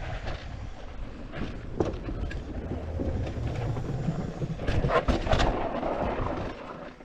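Intense Tazer Pro e-mountain bike riding down a dirt trail: a steady low rumble of wind on the microphone and tyres on the ground, with scattered clicks and knocks from the bike over bumps, loudest around five seconds in.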